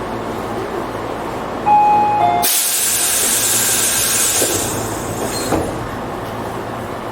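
Tobu 8000 series electric train running between stations, heard from on board as a steady rumble. About two and a half seconds in, a sudden loud hissing rush cuts in and fades away over the next few seconds, just after a brief tone that drops in pitch.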